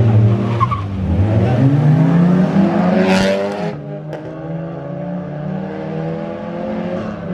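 Race car accelerating hard, its engine note rising steadily for a couple of seconds, with a brief high screech about three seconds in, then a steadier engine drone.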